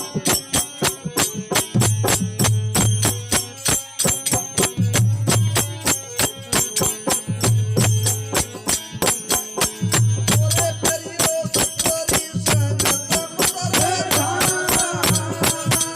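Rajasthani devotional folk bhajan music: fast, even jingling percussion over a low beat pattern that repeats every couple of seconds, with a wavering melody line coming in about ten seconds in.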